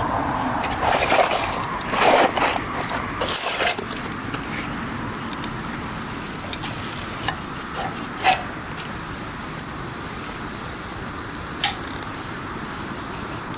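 Wood campfire burning: a steady hiss with sharp crackling pops. A cluster of louder crackles and rustling comes in the first few seconds, then single pops now and then.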